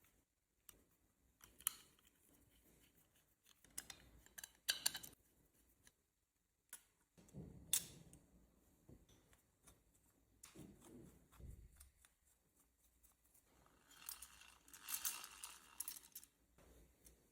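Faint clicks, taps and handling noises of small parts being fitted together during model kit assembly, with a brief burst of rattling clicks near the end.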